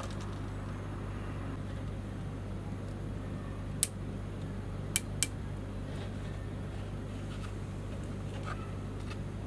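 Steady low hum with three sharp clicks, one a little under four seconds in and two close together about a second later.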